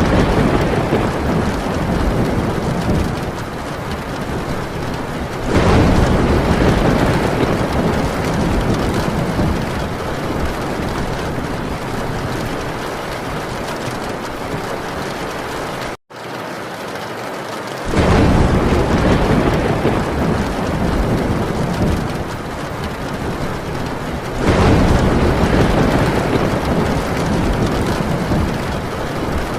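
Heavy rain drumming steadily on a metal tin roof, with rolling thunder that swells up and fades away about four times. The sound cuts out for a split second just past the middle.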